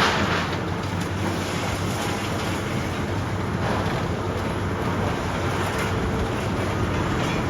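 Diesel engine of heavy demolition machinery running steadily under a constant rushing noise.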